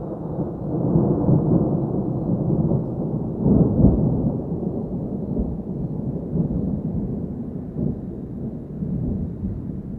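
Thunder rumbling in a long, low roll that swells to its loudest about three and a half seconds in.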